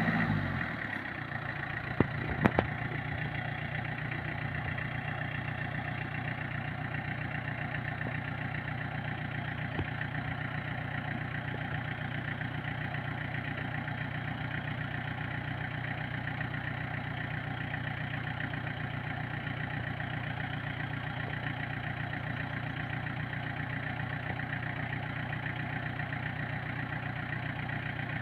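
Logging truck's diesel engine dropping from higher revs to idle in the first second, then idling steadily. A couple of sharp clicks a little after two seconds in.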